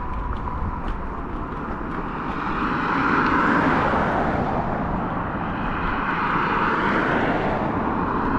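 Wind rushing over an action camera's microphone during an electric scooter ride, over the low rumble of the Apollo Go's small tyres on sidewalk concrete. The rush grows louder about three seconds in.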